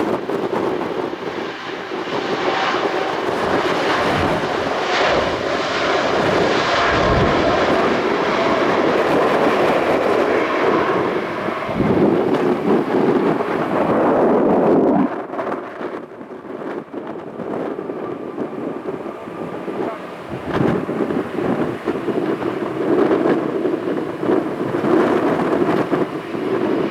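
Boeing 787's jet engines at takeoff thrust: a loud, steady jet noise with faint whining fan tones, dropping in level about halfway through as the airliner climbs away. Gusts of wind buffet the microphone now and then.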